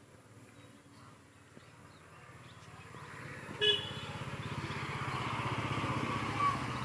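A vehicle engine runs with a steady, fast low pulse and grows louder over the second half, while road or traffic noise builds. A short horn beep sounds about halfway through.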